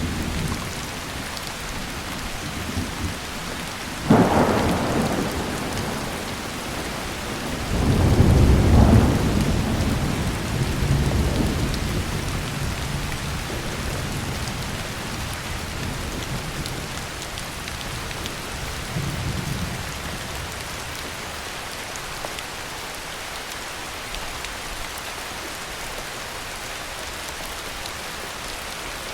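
Heavy rain falling steadily, with thunder. A sharp crack comes about four seconds in, then a longer, louder rumble a few seconds later that fades over several seconds, and a faint rumble later on.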